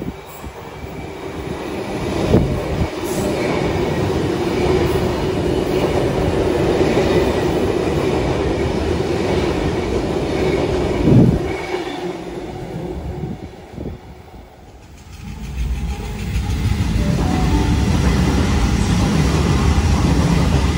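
Two double-deck electric trains passing through the station. First an older stainless-steel set runs past close by with a steady rumble and wheel-on-rail clatter, and there is a sharp clunk about eleven seconds in. After a short lull a Waratah-type set comes in with a deep low rumble.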